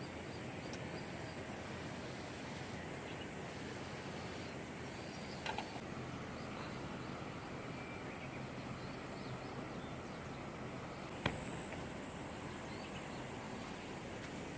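Steady outdoor background noise with faint, scattered high chirps. A brief sound comes about five and a half seconds in, and a single sharp click about eleven seconds in.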